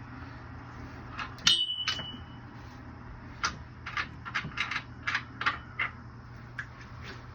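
A sharp metallic clang with a short ringing tone, followed by a run of lighter metallic clicks and knocks, over a steady low hum.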